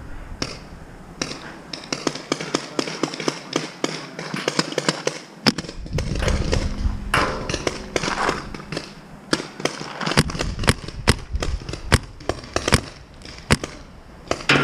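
Paintball markers firing: a long run of sharp, irregular pops, several a second, some loud and close, others fainter.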